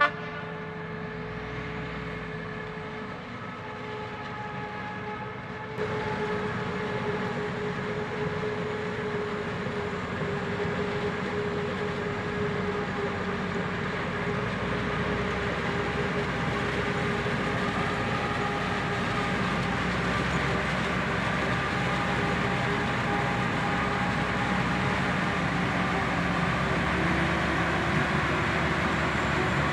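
Heavy diesel vehicle engine running steadily under load, with a steady whine above the engine note. It gets suddenly louder about six seconds in, then slowly louder still.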